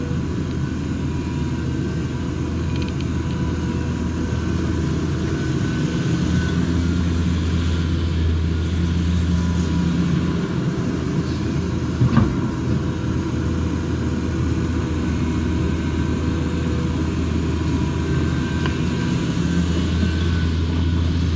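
Hydraulic excavator's diesel engine running steadily with a low drone, and a single sharp knock about twelve seconds in.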